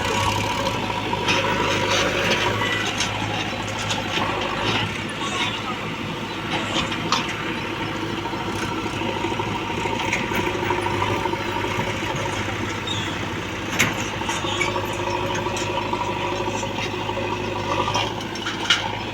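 Heavy vehicle's diesel engine running steadily, with a few sharp metallic knocks, two of them standing out near the end.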